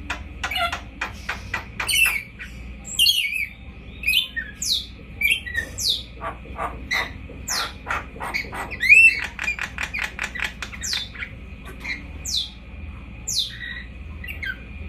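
Red lory calling throughout in a rapid series of short chirps and falling squawks, coming thickest about midway.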